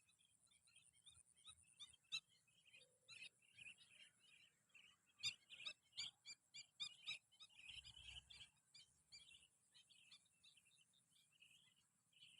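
A large flock of small birds chirping faintly, many short calls overlapping, with a run of sharp, rapid chirps in the middle.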